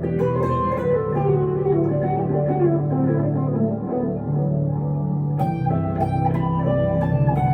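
Electric guitar, a 1962 Gibson Les Paul Custom through a Two Rock Emerald Pro amp, playing a melodic lead line with held notes over a steady low accompaniment. About five and a half seconds in, the picking gets sharper and busier.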